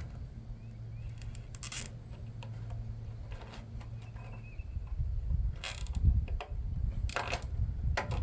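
Wind rumbling on the microphone, with a low steady hum through the first half. A handful of short, sharp mechanical clicks and clatters from handling hardware stand out above it.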